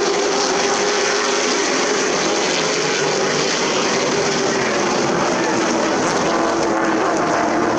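Super Truck race engines running on the track, a loud steady engine note that sags slightly in pitch in the middle and rises again near the end.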